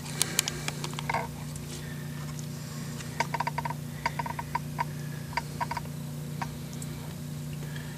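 Scattered light clicks and taps from hand work with small tools and materials, some in quick pairs with a brief ring, over a steady low hum.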